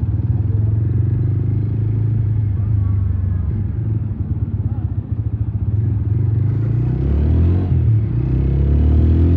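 Motorcycle engine running on the move, a steady low rumble that speeds up about seven seconds in and again near the end.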